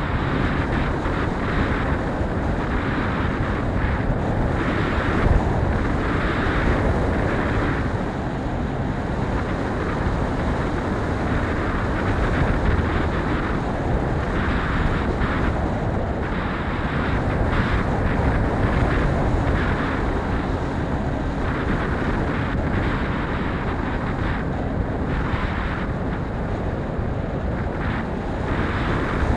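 Strong wind buffeting the microphone, a steady deep rumble that swells and eases with the gusts.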